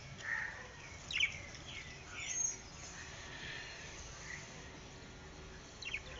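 Pet budgerigars chirping: short, sharp chirps scattered here and there, clustered about a second in and again near the end.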